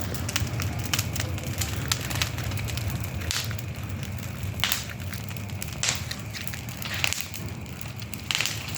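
Wood bonfire burning, crackling steadily with a handful of louder sharp pops, over a low steady rumble.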